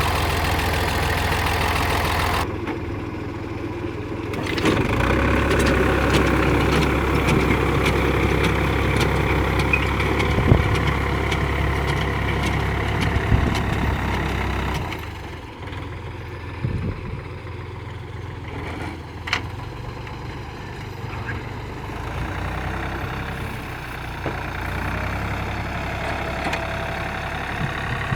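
Hinomoto N279 tractor engine running, its note shifting with the throttle: it drops about two seconds in, picks up again a couple of seconds later, and settles to a quieter, lower run about halfway through, with a few short knocks.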